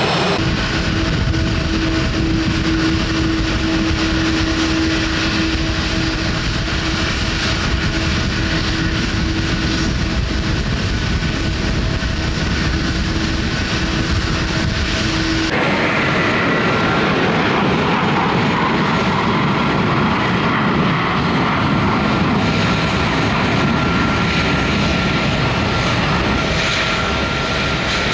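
Airliner engines running loud and close, a steady rush of noise with a held whine. Just past halfway the sound switches abruptly to a different engine noise with a higher steady whine.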